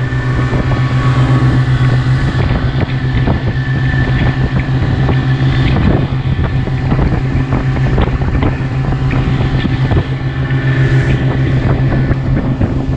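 Motorboat engine running at a steady drone while under way, with many short knocks over it.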